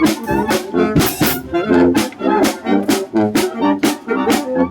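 A symphonic wind band playing a polka: brass carrying the tune in chords over a steady beat of percussion strikes about twice a second.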